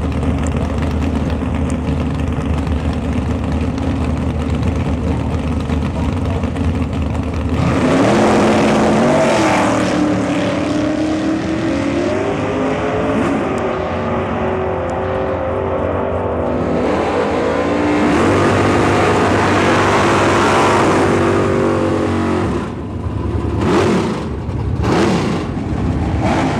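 1968 Camaro race car engine idling steadily, then revving up about a third of the way in and running at higher speed, its pitch rising and falling for some fifteen seconds. Near the end it revs sharply twice, then settles back to idle.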